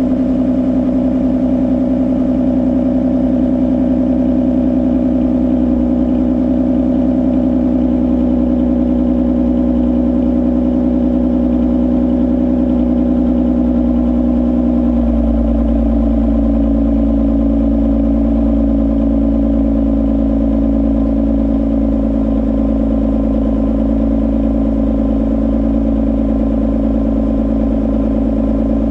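2021 Toyota Avalon TRD's 3.5-litre V6, with resonator and second catalytic converter deleted, idling steadily through its exhaust on cold-start fast idle. The idle eases slightly lower and steps down about halfway through as the engine warms.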